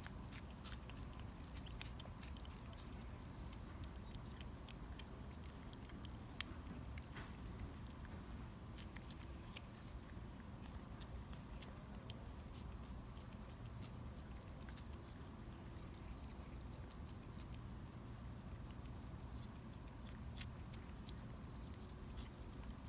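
British shorthair cat licking a Churu lickable puree treat: many quick, irregular wet tongue clicks and smacks over a low steady background hum.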